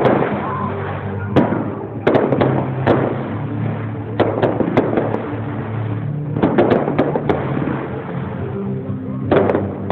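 Fireworks going off: a string of sharp bangs at irregular intervals about a second apart, most followed by crackling, with a steady low hum underneath.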